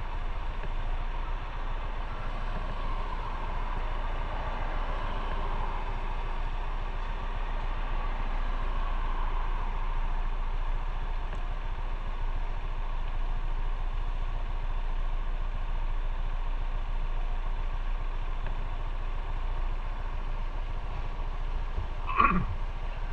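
Motorcycle running steadily along the road, with engine and wind noise, and a short, sharp sound that drops in pitch near the end.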